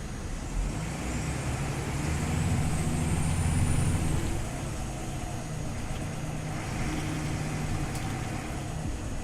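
Scania OmniLink CL94UB city bus running, its engine rising in level as it pulls harder from about one to four seconds in, with a thin high whine that climbs and then falls away. After that it eases back to a steady run.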